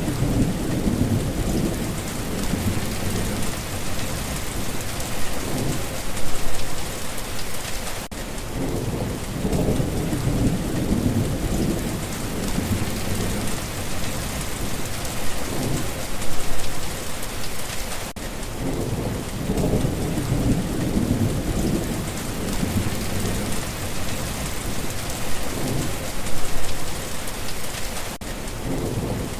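Steady rain falling on a surface, with low rolls of thunder swelling and fading about every ten seconds.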